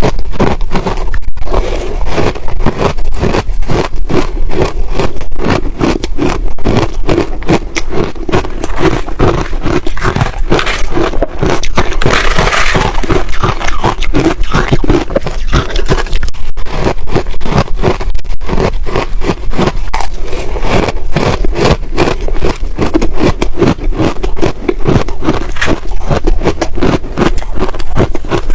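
Ice being chewed: dense, rapid crunching, one crunch after another without a break, with a brighter, crisper patch about halfway through.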